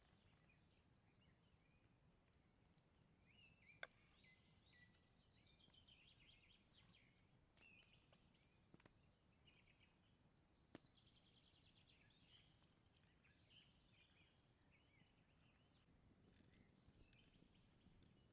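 Faint forest ambience: small birds chirping and calling, with three sharp clicks, the loudest about four seconds in.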